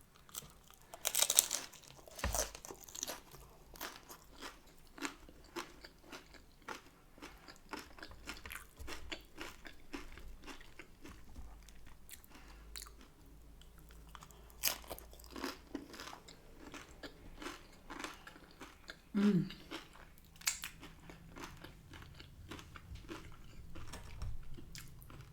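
Close-up chewing and crunching of a hard-shell taco: crisp crunches of the fried corn shell, many separate bites and chews in irregular succession.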